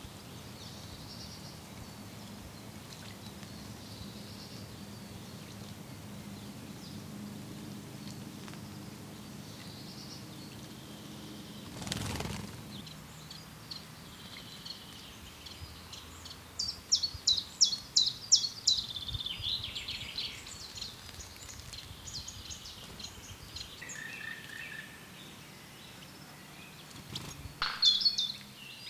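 Small songbirds calling and singing: scattered faint high calls, then a loud, rapid series of sharp high notes lasting a few seconds, and another short loud burst of calls near the end. A single short knock sounds about twelve seconds in.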